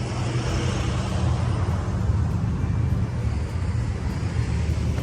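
Road traffic of passing cars, with a steady low engine drone throughout.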